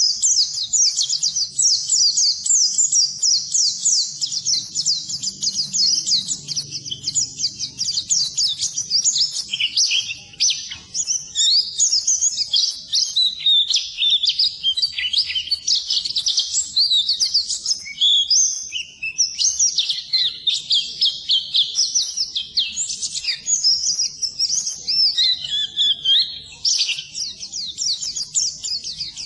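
A pleci (white-eye) singing its fast, unbroken twittering song, the 'ngeriwik', as a long stream of rapid high-pitched chirps without pauses.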